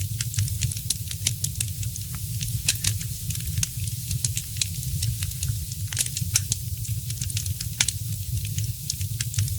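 Fireplace fire crackling: many small, irregular pops and sharper snaps, several close together around six seconds in, over a steady low rumble.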